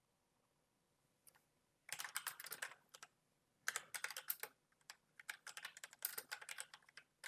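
Computer keyboard typing in three quick runs of keystrokes, starting about two seconds in, with short pauses between the runs.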